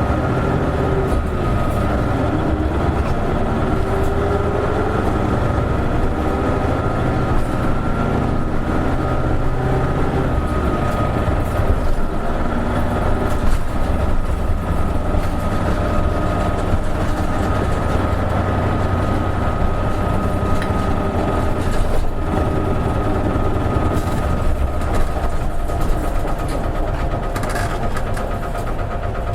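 Isuzu KL-LV280N1 diesel city bus heard from inside the cabin while underway: a continuous engine and drivetrain drone with road noise. A whine rises in pitch a few seconds in, a steady higher whine runs alongside, and there are scattered small rattles.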